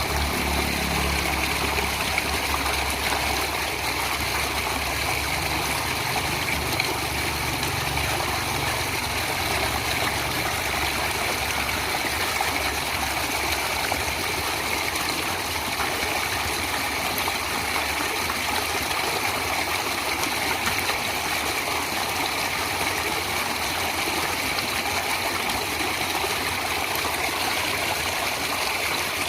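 Steady rushing of flowing stream water, even and unbroken. A low hum lies beneath it and fades out over the first ten seconds or so.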